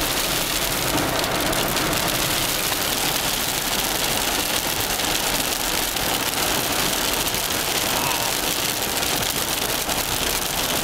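Hail pelting down in a dense, steady clatter of many small impacts.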